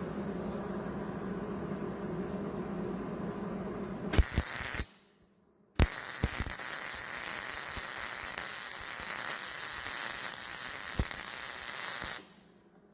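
A low hum for about four seconds, then MIG welding arc hissing and crackling as a bead is run on hot rolled steel: a short half-second burst, a pause of about a second, then a steady run of about six seconds that stops shortly before the end.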